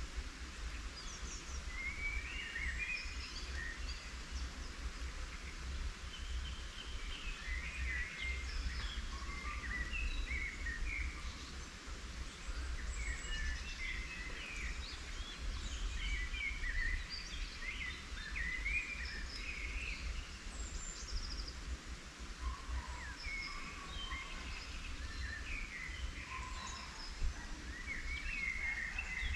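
Several songbirds singing at once, a busy mix of short chirps and trills, over a steady low rumble.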